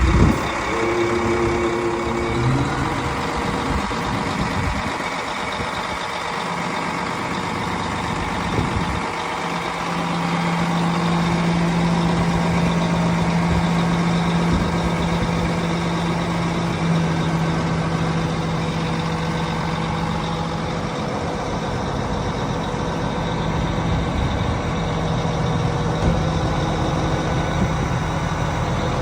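Volvo diesel truck engine (435 hp) idling steadily, with a constant low hum.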